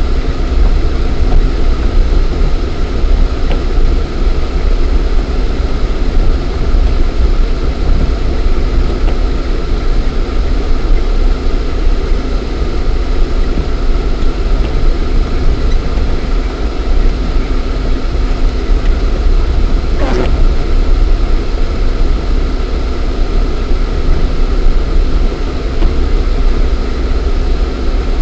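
Lada Niva 1.7i's four-cylinder petrol engine and drivetrain running steadily on the move, recorded inside the cabin, with a heavy low rumble. A brief sharp noise comes about twenty seconds in.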